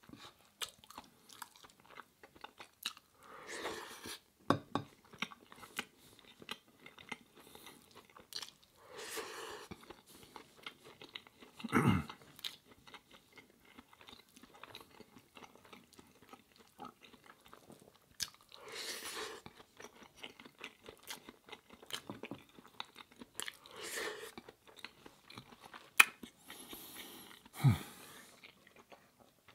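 Close-miked eating of curry with baguette bread: chewing and crunching with wet mouth sounds, broken by many small clicks. There are a few sharper knocks, the loudest about twelve seconds in and two more near the end.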